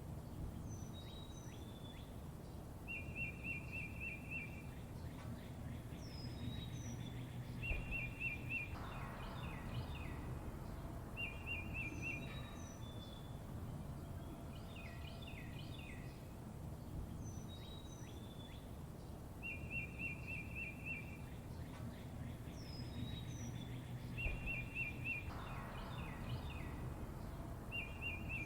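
Several songbirds chirping and calling, with short rapid trills and high down-slurred whistles, over a steady low background rumble. The same sequence of calls repeats about every 16 seconds, as a looped recording.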